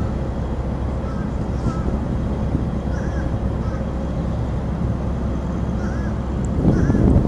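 Steady low rumble of an NJ Transit commuter train standing idle at a level crossing, with a few faint short chirps now and then.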